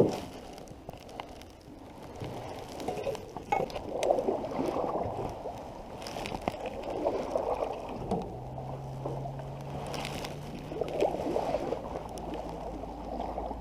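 Canoe paddle strokes, water swishing and gurgling around the blade in uneven swells, with a few light knocks. A steady low hum comes in about eight seconds in.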